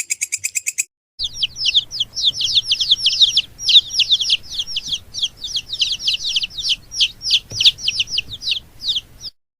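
Birds peeping in a dense, busy run of short, high notes that each slide downward, several a second; it cuts off abruptly near the end. Before it, a fast, even chirping trill cuts off just under a second in.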